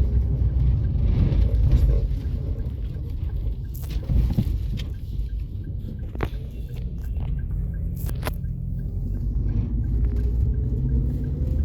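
Low road rumble of a moving car heard from inside the cabin, with a few sharp knocks.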